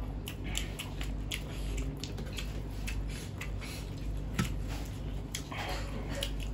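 Close-miked eating: wet chewing and mouth smacks of people eating fried chicken and rice by hand, many short clicks over a low steady hum, with one sharper click about four and a half seconds in.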